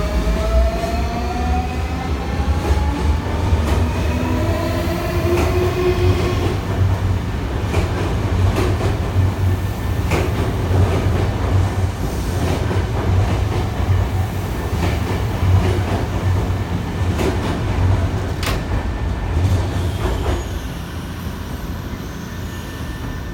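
Nankai electric train pulling out and accelerating. A whine of several tones climbing together from its traction motors rises over the first six seconds, over a steady low rumble. Its wheels then clack over rail joints and points, and the sound fades near the end.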